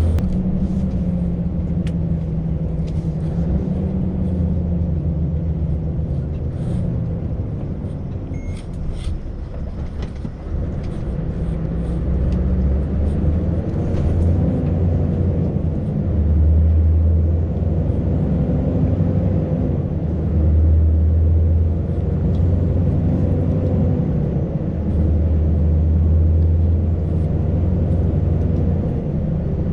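Scania V8 truck engine running under load, its note swelling and easing several times. The engine radiator fan is running all the time because of a damaged wire on its loom, making the truck sound louder but not nice louder.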